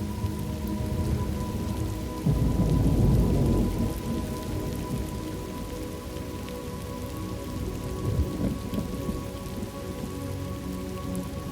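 Steady rain with a roll of thunder rumbling about two seconds in and a smaller rumble near eight seconds, over soft sustained background music tones.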